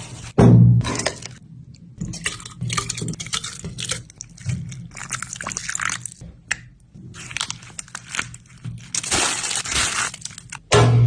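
Cooking sounds from making bamboo biryani: irregular knocks, clicks and scraping, with a loud low thump about half a second in and a longer steady rush of noise near the end.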